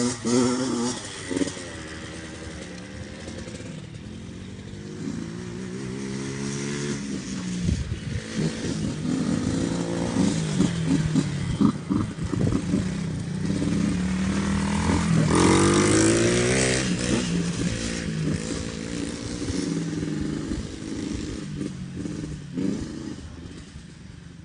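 Dirt bike engine revving up and down repeatedly, its pitch rising and falling, loudest about two-thirds of the way through and dropping away near the end.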